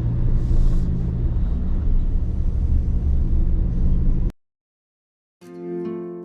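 Truck driving along: a steady low engine and road rumble that cuts off abruptly about four seconds in. After a second of silence, acoustic guitar music fades in near the end.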